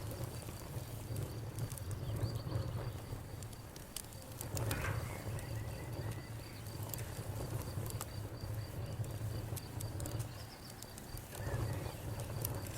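Campfire burning: irregular sharp crackles and pops over a low, steady rumble of flame, with a faint high steady trill of insects.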